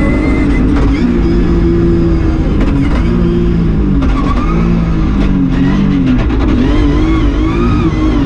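BMW E36 M3 rally car's straight-six engine driven hard on a stage, heard from inside the cabin: the engine note climbs and falls again and again as the driver accelerates, shifts and lifts for corners.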